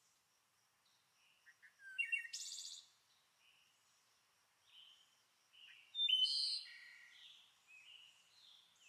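Faint birdsong: scattered short high chirps, with two louder bursts of calls about two and six seconds in.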